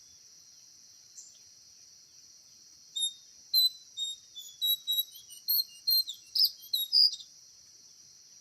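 A bird giving a quick run of about a dozen sharp, high chirps, starting about three seconds in and stopping about a second before the end, over a steady high buzz of forest insects.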